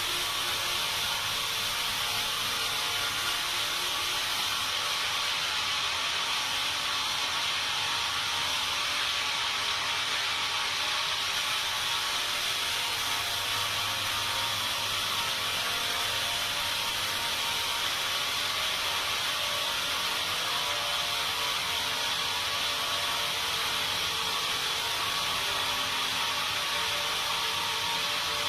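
Sawmill saw and machinery running steadily, a continuous hissing noise with a faint hum under it.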